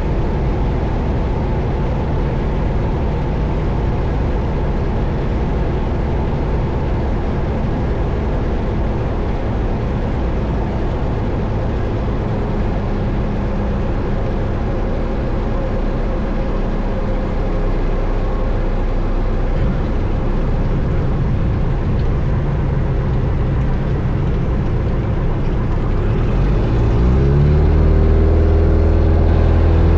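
Cessna 172 Skyhawk heard from inside the cockpit: its piston engine runs at low power with a steady rumble. About four seconds before the end, power is applied for the touch-and-go takeoff, and the engine note rises and grows louder as it comes up to full throttle.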